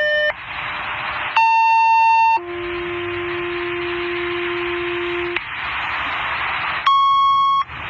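Fire-dispatch paging tones over a radio scanner: a one-second high beep followed by a long, lower three-second tone, then radio hiss, and another high beep starting near the end. This is the two-tone alert that sets off a fire company's pagers before a call is read out.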